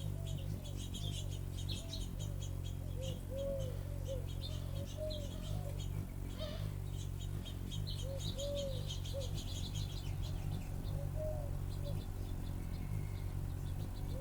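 Small birds chirping and twittering busily, mixed with short rise-and-fall cooing notes that repeat every second or so, over a steady low hum.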